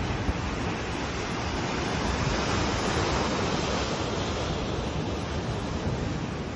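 Ocean surf washing in a steady rush that swells a little midway, with wind buffeting the microphone.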